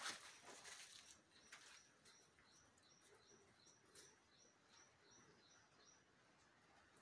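Faint, regular high chirping from a small bird, about three chirps a second, that stops near the end, with a few soft rustles in the first second or so.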